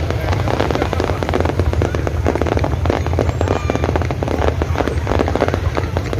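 Fireworks display: a dense, continuous run of rapid crackling bangs over a deep rumble, without a pause.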